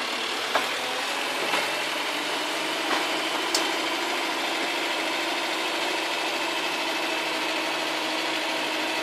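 A Land Rover's petrol engine running steadily, heard from inside the bare-metal cab, with a few faint clicks and knocks from the vehicle. It is running smoothly now that it has fuel again.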